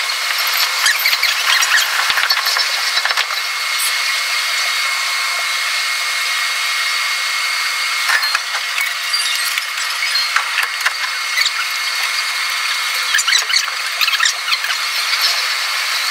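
Sound of a Tobu Tojo Line electric commuter train heard from the driver's cab, sped up sixfold so that it is high-pitched: a continuous rattling hiss with a thin squeal and quick runs of clicks from the wheels over the rails.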